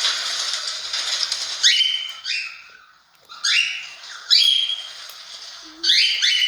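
Cockatiel calling: a raspy, noisy stretch for the first second and a half, then about six short squawks that each rise sharply in pitch, some coming in quick pairs.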